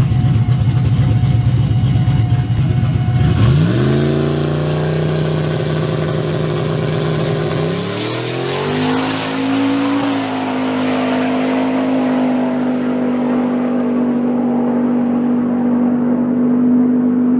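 A turbocharged drag-racing truck's engine, running rough and low at first. About four seconds in the revs climb sharply as the truck launches, climb again around eight seconds in, then hold one steady note while the high end of the sound fades.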